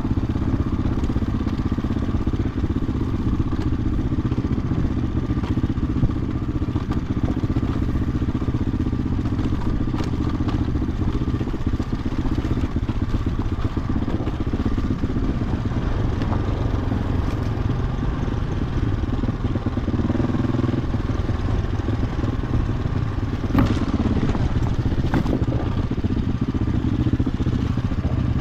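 2007 Husqvarna TE-450 single-cylinder four-stroke dirt bike engine running steadily while being ridden on a trail, with a few short knocks and clatter from the bike over rough ground, two of them near the end.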